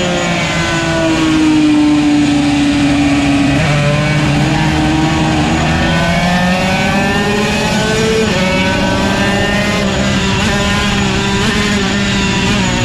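Yamaha TZ125's 125 cc two-stroke single-cylinder racing engine running hard at high revs. Its pitch sinks over the first few seconds, steps suddenly about three and a half seconds in, then climbs again with another sudden step about eight seconds in.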